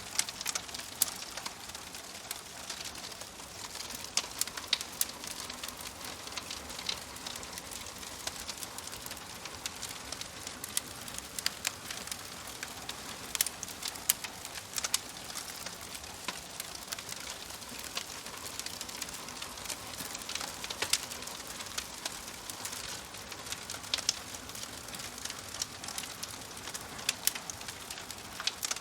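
Campfire burning, with a steady hiss and frequent irregular sharp crackles and pops from the wood.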